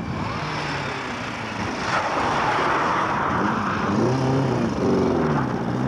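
Rally car engine revving, its pitch rising and falling again and again, over a rush of noise that swells about two seconds in.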